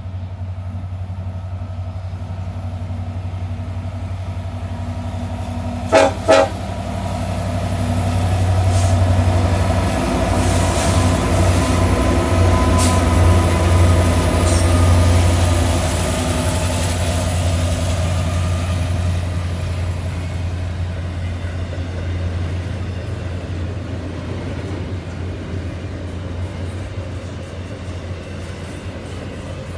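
A diesel-powered freight train: the locomotives approach with a steady low engine rumble and give two short horn taps about six seconds in, then pass close by at their loudest. The rolling rumble and clatter of double-stack container cars follows, slowly easing off.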